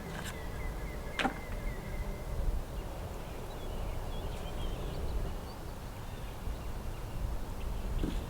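Outdoor ambience: a steady low rumble with faint, sparse bird chirps and a single sharp click about a second in.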